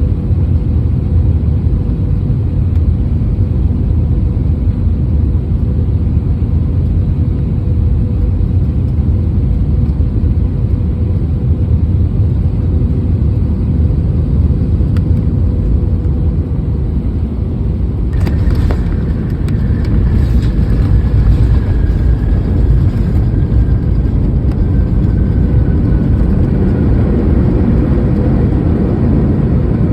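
Airliner running with a steady low rumble and a steady hum during landing. A little past halfway comes a sudden rattle and a few clicks, then a faint whine that slowly falls in pitch.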